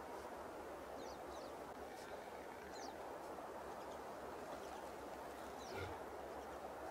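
Small birds giving short, high, falling chirps now and then over a steady outdoor hiss, with a soft low thump about six seconds in.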